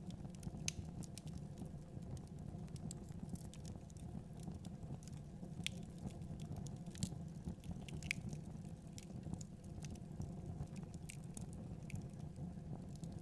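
Wood fire crackling in a fireplace: a steady low rumble of the burning fire with irregular sharp pops and snaps scattered throughout.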